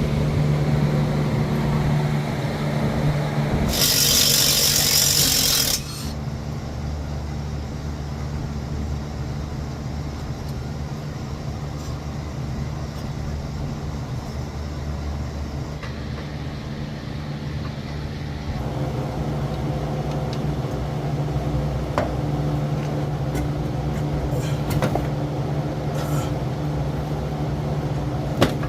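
Hand-tool work on the exhaust bolts under a 1989 Dodge D100: a loud hiss of about two seconds near the start, then rubbing and scraping with a few sharp metallic clicks over a steady low hum.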